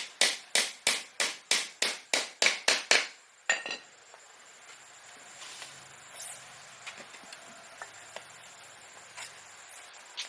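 Rapid, even hammer blows, about three a second, stopping about three seconds in after one last strike; after that only faint scattered taps.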